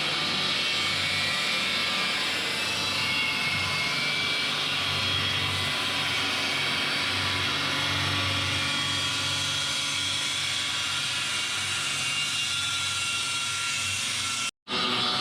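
A handheld power cutting tool running steadily as it cuts through steel, with a brief dropout near the end.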